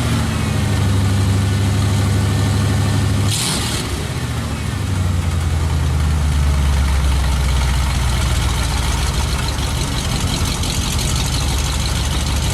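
Ford F-150's 351 V8 idling through new glasspack mufflers with a nice little lope. About three and a half seconds in there is a brief burst of noise and the idle drops to a lower, steady speed.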